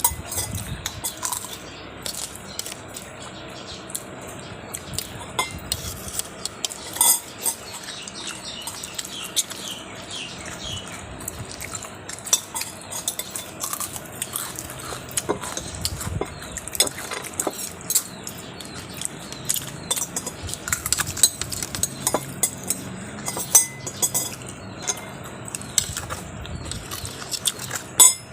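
Utensils and dishes clinking and clattering irregularly, with sharp clinks every second or so.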